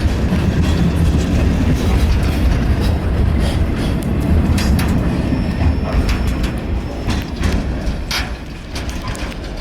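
Canadian National train rolling past: a steady low rumble of the train with scattered clicks and short squeaks from the wheels on the rails, fading over the last few seconds as it moves away.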